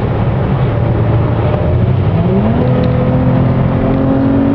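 2013 Dodge Challenger's engine heard from inside the cabin, running steadily. About two seconds in, its pitch rises as the car accelerates, then holds at the higher revs.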